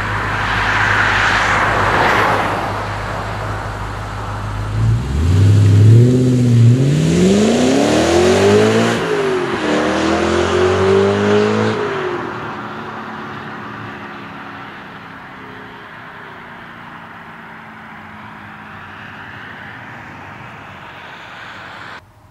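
Audi RS4 B7's 4.2-litre V8 through an MTM cat-back exhaust, running steadily at low revs, then accelerating hard about five seconds in: revs rise, drop at an upshift near the middle, rise again, and the sound then fades away as the car drives off.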